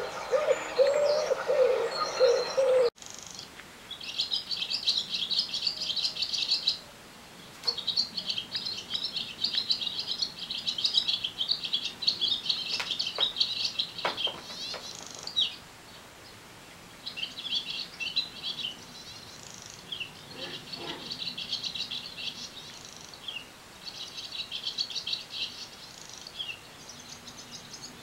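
A wood pigeon cooing for about the first three seconds, then, after a sudden cut, a small songbird singing high, fast trills in repeated bursts with short pauses between them.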